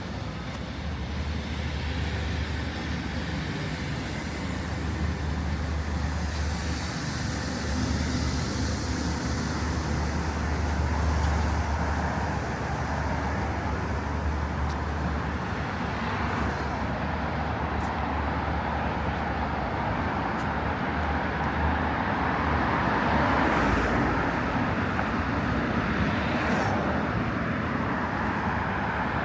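Steady road traffic noise from a busy city street, with the low engine rumble of passing vehicles strong through the first half and fading out about halfway through.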